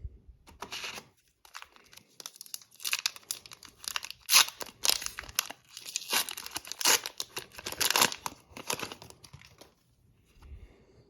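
Wrapper of a 2020-21 Upper Deck Series 2 hockey card pack being torn open and crinkled: a run of sharp rips and crackles for most of the stretch, dying away about two seconds before the end.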